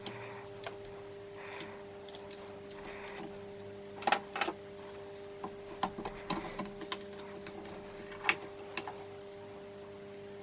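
Scattered light metallic clicks and knocks of tools and engine parts being handled on a workbench, more frequent from about four seconds in, over a steady faint hum.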